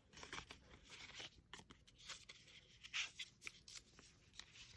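Faint, irregular rustling and handling noise of paper cards and album packaging being moved, with a few louder scrapes.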